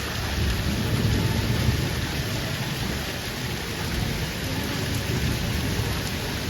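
Heavy rain pouring steadily, with a deep low rumble that swells and fades during the first two seconds.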